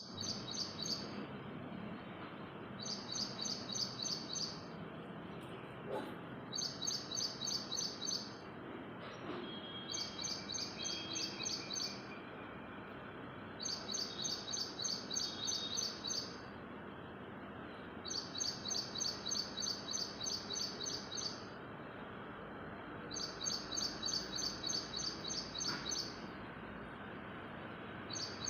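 A bird singing a rapid, high trill of repeated chirps. The song comes in phrases of a couple of seconds each, repeated about seven times with short pauses between them, over a steady background hiss.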